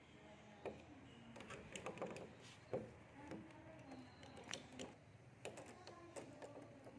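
Faint, irregular light clicks and taps, a dozen or so scattered through, the sharpest a little under three seconds in.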